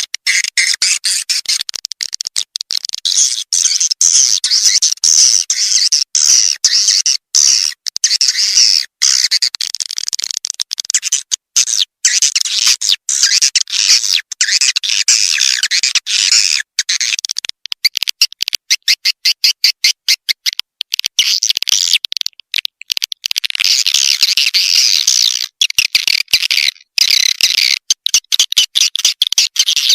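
Recorded swiftlet calls: dense, rapid high-pitched twittering of edible-nest swiftlets, with many brief sudden breaks. This is a swiftlet lure call, played to draw swiftlets to a nesting house.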